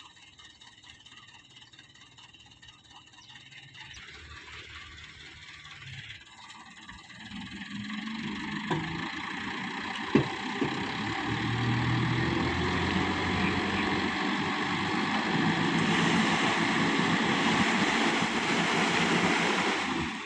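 A loaded dump truck's engine working hard, growing louder from about six seconds in and staying loud, as the sand-laden truck struggles while bogged down. There is a single sharp knock about ten seconds in.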